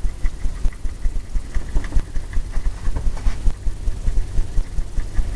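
Loaded paintbrush dabbing and scrubbing on a stretched oil-painting canvas: a rapid, uneven run of low thumps, several a second, with faint scratchy ticks of the bristles.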